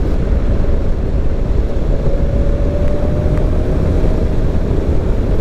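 Steady low rumble and wind noise of a vehicle on the move, with a faint hum that rises slightly in pitch in the middle.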